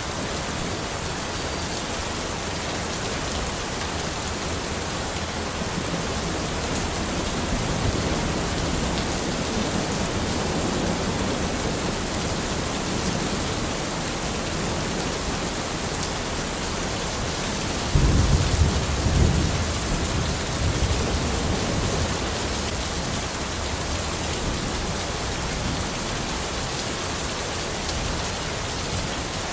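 Steady rain falling in a forest, with a low rumble of thunder that breaks in suddenly about two-thirds of the way through and rolls away over a few seconds; a fainter rumble swells and fades about a third of the way in.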